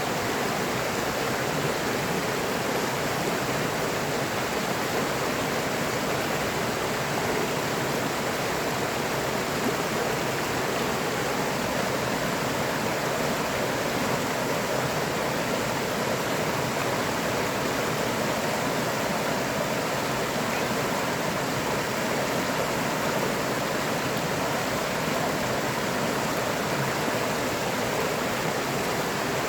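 River water flowing and rushing steadily, an even, unbroken wash of noise.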